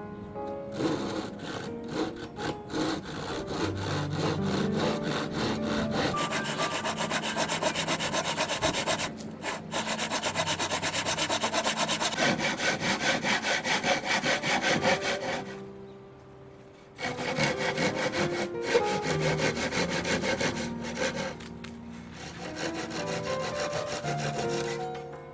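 Hand saw cutting through a wooden board in quick, rhythmic strokes. It stops briefly about two-thirds of the way through, then carries on.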